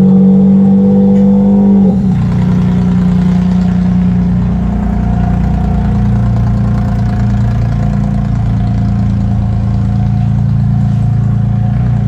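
Demolition derby car's engine held at high revs for about two seconds, then dropping back to a lower steady run.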